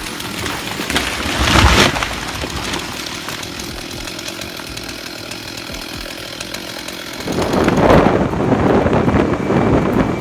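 A power saw cutting through wood, running steadily with a brief louder burst about a second and a half in and a louder, rougher stretch from about seven seconds in.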